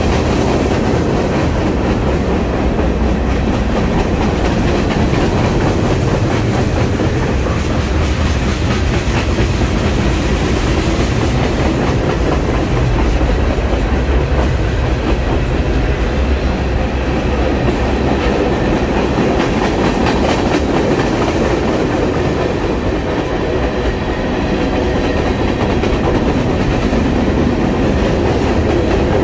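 Freight train cars rolling past: a steady, loud rumble of steel wheels on rail, with clicking as the wheels cross the rail joints.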